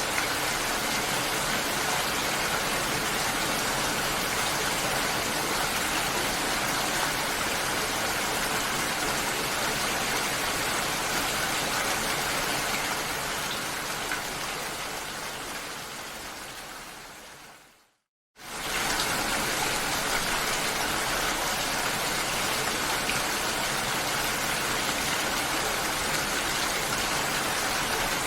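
Steady rain hiss. It fades down to silence about three quarters of the way through, then cuts back in abruptly half a second later.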